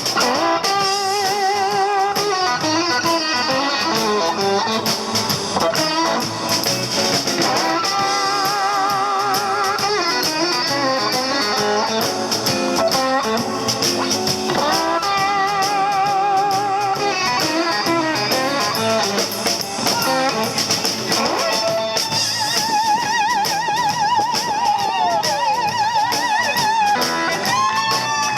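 Blues band playing an instrumental break: a lead guitar holds notes with wide wavering vibrato and bends them up and down over drums and rhythm backing.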